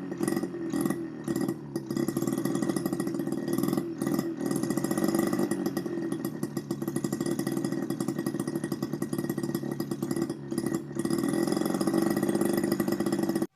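Miniature two-stroke engine built from a refrigerator compressor, running fast and steady with a buzzing firing note. It falters briefly a few times, then cuts off suddenly.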